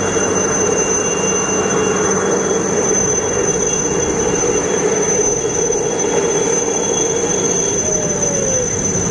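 Military helicopter flying over: steady, loud engine and rotor noise with a constant high-pitched whine.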